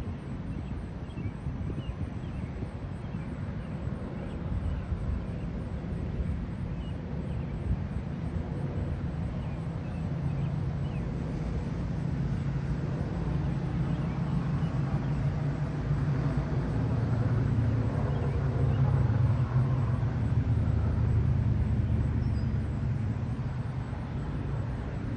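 Low rolling rumble of distant thunder over a steady outdoor background, swelling from about ten seconds in to its loudest near the end.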